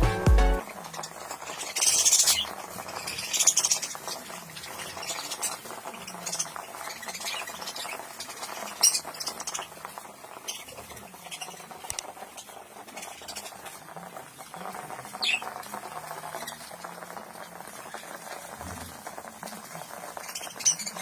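Budgerigars chirping now and then in short high-pitched calls, over light scratching and rustling.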